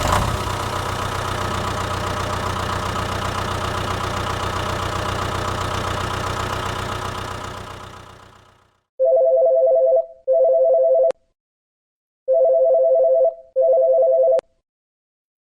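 Tractor engine running steadily, then fading out about eight seconds in; then a telephone rings twice, each ring a pair of short buzzing tones.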